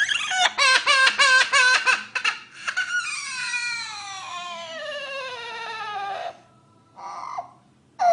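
Parrot mimicking a crying baby. First comes a quick run of short sobbing cries, about five a second, then one long wail that falls steadily in pitch for about three seconds. A short cry follows near the end.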